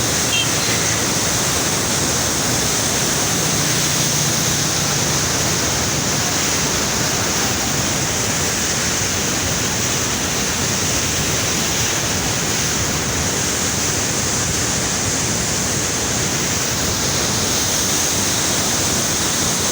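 Water rushing steadily through the gates of a river barrage, a loud continuous rush with no breaks.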